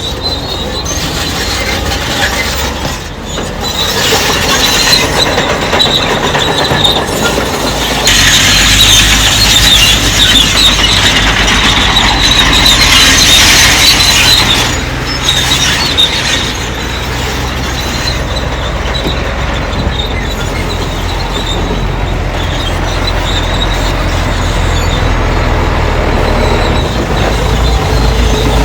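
Crawler bulldozer at work: its diesel engine running under the squeal and clank of its steel tracks, growing louder for several seconds about a third of the way in, then easing off.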